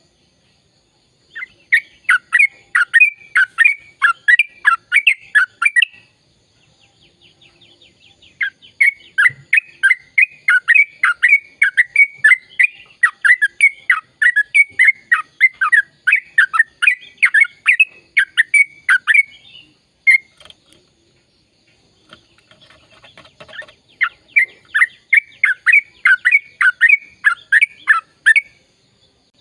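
Yellow-vented bulbul (trucukan) singing in its chatty 'ropel panjang' style: three long runs of rapid, repeated downward-sweeping notes, with softer chatter between the runs.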